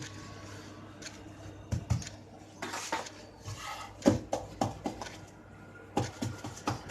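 Kitchen handling sounds: scattered light knocks and taps of dishes and utensils, a brief rustle about three seconds in and a quicker run of taps near the end, over a steady low hum.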